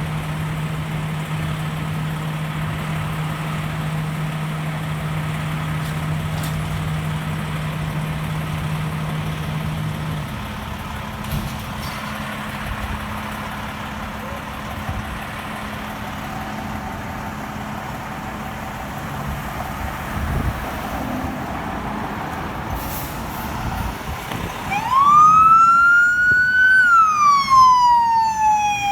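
Fire apparatus running with a steady low engine hum, one tone of which stops about a third of the way in. Near the end, a fire truck's siren starts a wail: it rises, falls and rises again, much louder than everything before.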